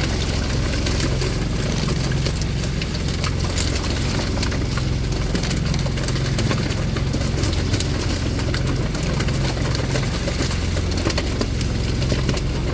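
Fishing boat's engine running steadily at a low, even drone, with a constant hiss above it.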